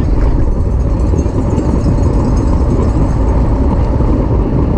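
Wind buffeting a camera microphone carried at racing speed on a bicycle, a loud, steady rumble with no break.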